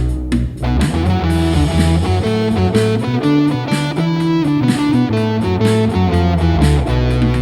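Instrumental blues intro: electric guitar playing over bass and drums.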